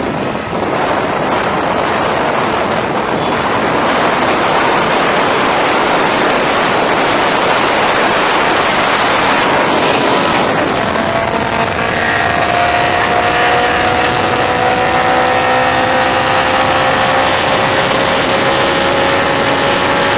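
Car driven hard, heard from inside the car: a loud, steady rush of wind and road noise with the engine under it. From about halfway the engine note climbs slowly as the revs build.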